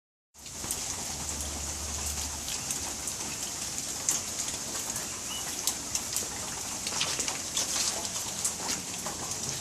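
Steady rainfall: an even hiss with many sharp ticks of drops striking a hard surface close to the microphone.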